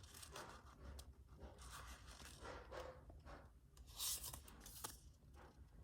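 Faint rustling and sliding of trading cards and pack wrapping being handled, with a slightly louder swish about four seconds in.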